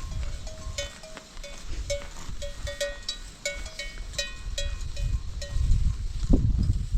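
Many small bells on a grazing flock of sheep and goats clinking irregularly as the animals move. A low rumble swells near the end.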